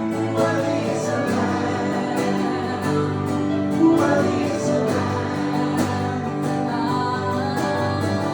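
Live acoustic worship music: an acoustic guitar strummed steadily, with singing over it.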